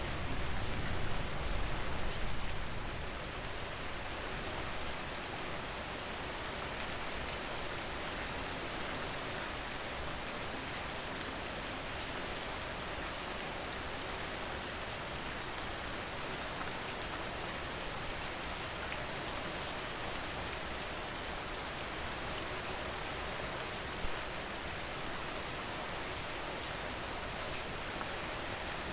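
Steady rain falling, an even hiss of drops. A low rumble dies away in the first couple of seconds.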